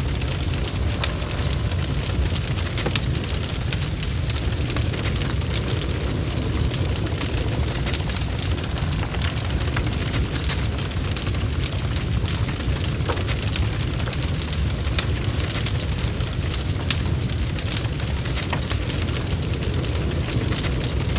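Wood fire crackling: a steady low rumble of flames with many sharp, irregular crackles and pops throughout.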